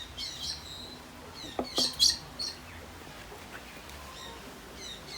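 Small birds chirping in short, high calls, with a louder flurry of chirps about two seconds in.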